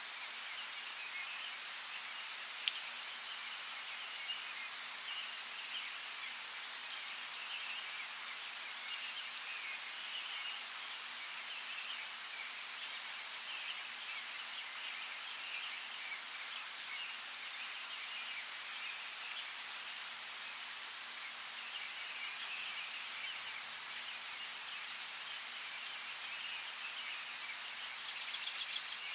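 Steady light rain hiss with an occasional sharp drop tick, and birds chirping throughout. Near the end comes a short, rapid, high bird trill.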